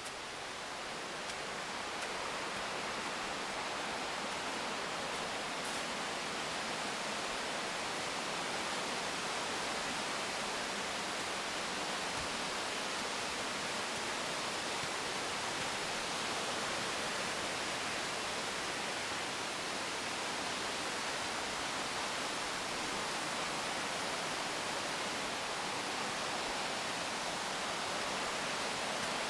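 Waterfall rushing steadily, a continuous hiss of falling water that grows a little louder over the first few seconds and then holds even.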